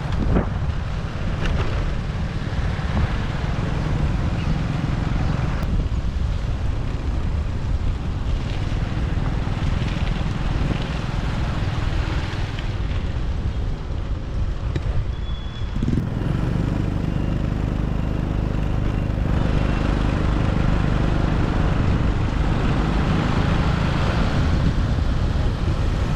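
Wind buffeting the microphone over the engine and road noise of a motorbike riding through city traffic. The low rumble changes abruptly about sixteen seconds in and runs steadier after that.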